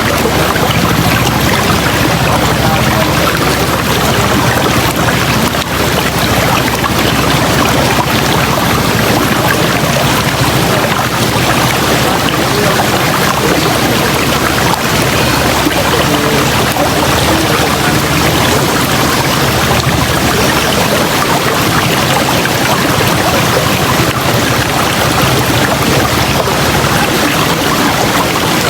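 River water rushing over rocks in a steady, loud, even flow.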